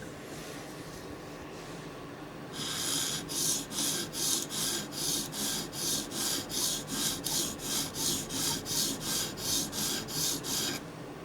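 OTF tanto knife blade stroked back and forth on a sharpening stone, working the short tip edge. It runs as an even rhythm of scrapes, about two to three a second, starting about two and a half seconds in and stopping just before the end.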